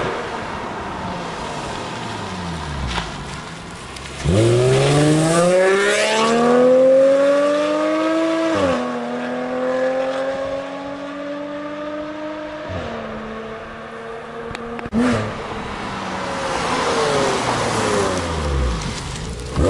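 Car with an aftermarket exhaust accelerating hard: the engine note climbs steeply, drops sharply at an upshift about halfway through, climbs again more slowly and drops at a second shift. At the start and again near the end, the exhaust note falls in pitch as a car passes by.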